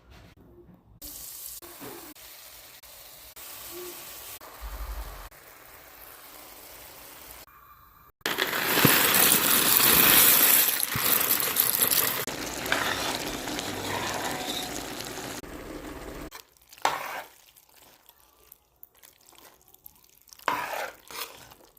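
Kitchen cooking sounds in several short cuts. The loudest is an even hissing sizzle of food frying in a pan, from about eight to sixteen seconds in, followed by a few brief clatters near the end.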